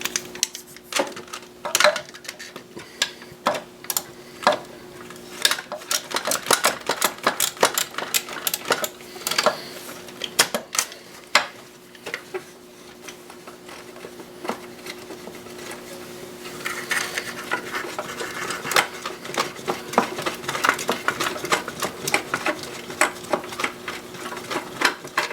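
Ratchet wrench with a 13 mm socket clicking in quick runs as a bolt is worked loose, with tools tapping against metal, over a steady low hum. The clicking grows faster and denser near the end.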